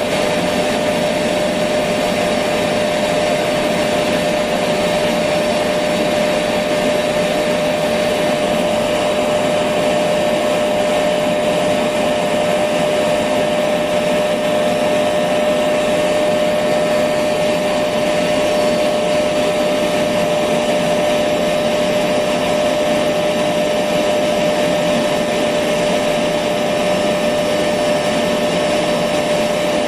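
Electric vacuum cleaner running steadily: a constant motor whine over an even rushing of air, with no change in speed.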